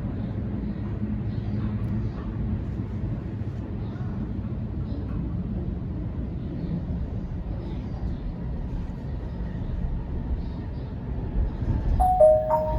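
Steady low rumble of a Sydney Trains Waratah electric train running, heard from inside the carriage. Near the end, a short falling two-note chime sounds, the tone that comes before an onboard announcement.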